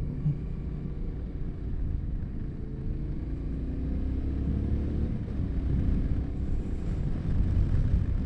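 Yamaha Ténéré 700's parallel-twin engine running as the motorcycle rides along, its note rising and growing louder a few seconds in.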